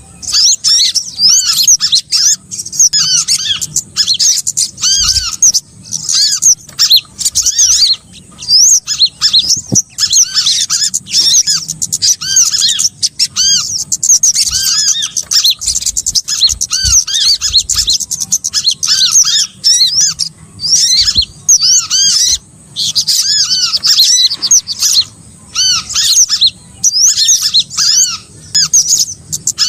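Bird-trapping lure recording of small songbirds: dense, rapid, high chirps and twitters that come in choppy bursts with short breaks, over a steady high hiss.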